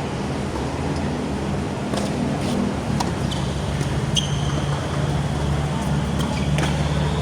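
Steady low rumble of a running vehicle engine or nearby traffic, with a few sharp clicks. A thin high whine starts about three seconds in and slowly rises.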